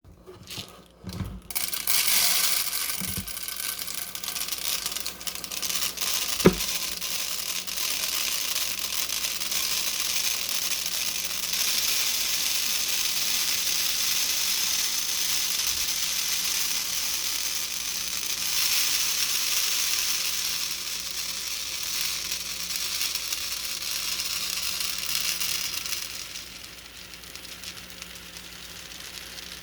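Gain Fireworks laundry scent beads pouring into a clear container: a steady, hissing rattle of many small beads streaming in. It starts about two seconds in after a few clicks, has one sharp knock about six seconds in, and eases off near the end.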